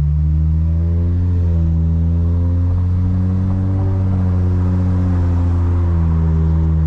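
Lexus IS350's 3.5-litre V6 through a muffler-delete, secondary-cat-delete exhaust, droning steadily while cruising. The engine note rises gently about a second in and eases slightly near the end.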